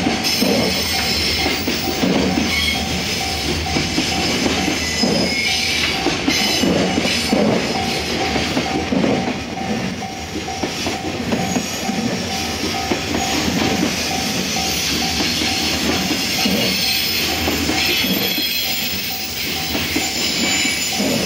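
Container wagons of a long freight train rolling past, their wheels clattering in a steady rhythm over the rail joints.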